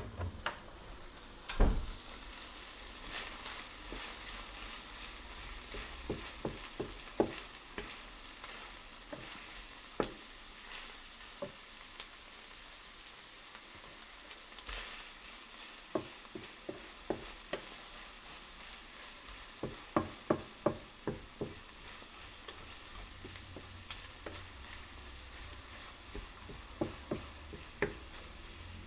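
Food sizzling in a hot frying pan while being stirred: a steady sizzle under frequent sharp taps and knocks of a utensil against the pan, loudest near the start and in a quick run about two-thirds through.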